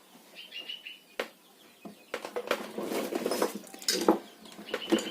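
A bird chirping briefly near the start and again near the end, with a busy run of clicks and rattling in between.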